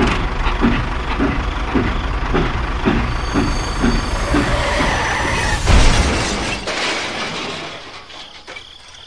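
A vehicle-like engine or machine chugging in a steady rhythm of about three beats a second over a constant rumble. A loud thump comes near the middle, and then the sound dies away.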